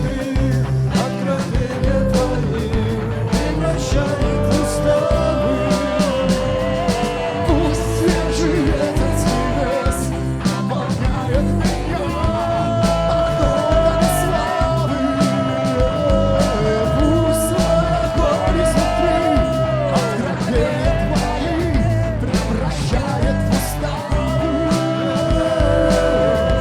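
Live worship band music in a rock style, with drums, guitar and long held notes.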